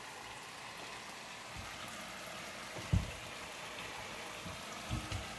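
Chicken frying in a pan, a steady sizzle, with a dull knock about three seconds in and a couple of lighter knocks near the end.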